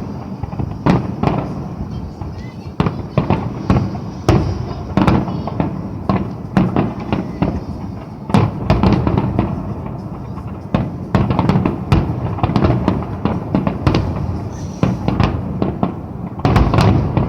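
Fireworks going off in quick succession: a steady run of irregular sharp bangs and crackles, several a second, with no break.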